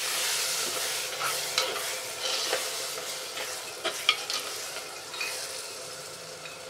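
Chopped onions and tomatoes sizzling in a terracotta clay pot while a steel spoon stirs them, with a few sharp clinks and scrapes of the spoon against the pot. The sizzle fades gradually as the mixture softens.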